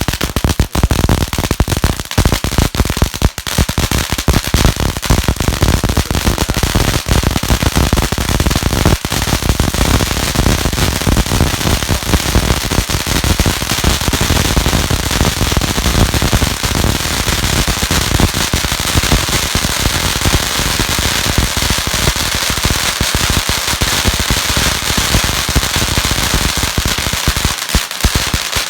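Firework fountains burning, a dense, continuous crackle of crackling stars over a steady hiss.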